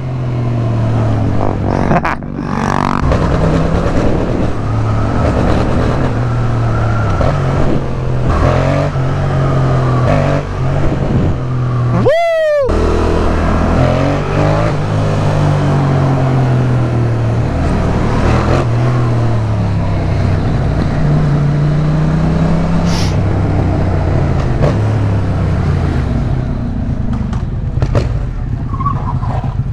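Yamaha MT-07's 689 cc parallel-twin engine running through a new aftermarket exhaust under way, its note rising and falling repeatedly as it accelerates and shifts gears.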